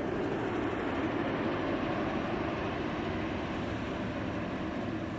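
Passenger coaches of a diesel-locomotive-hauled express rolling through at speed: a steady rushing noise of wheels on the rails.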